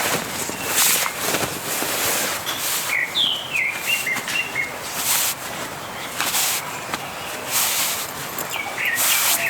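A bird chirping: a run of short, falling chirps about three seconds in and a few more near the end. Under it, repeated short bursts of rustling noise.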